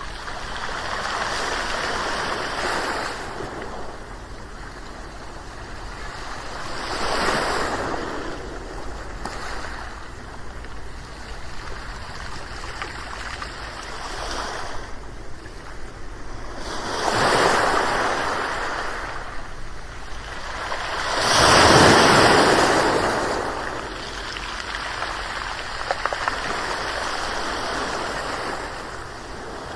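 Ocean waves washing onto a shore in a steady surf hiss, with separate waves swelling and receding every several seconds; the biggest breaks about two-thirds of the way through.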